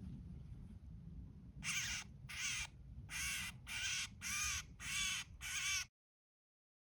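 A small bird held after being tangled in garden netting gives six short, harsh distress calls in a row, about one every two-thirds of a second. The sound cuts off abruptly near the end.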